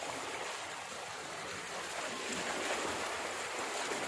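Running water rushing steadily, like a stream or small cascade.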